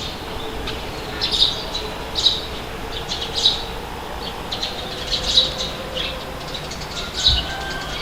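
Birds calling in short repeated chirps, about once a second, over a steady rush of wind.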